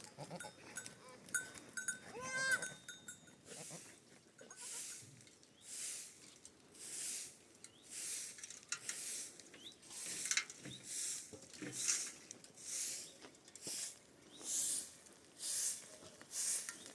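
A goat bleats near the start. It is followed by a steady rhythm of swishing strokes, about one a second.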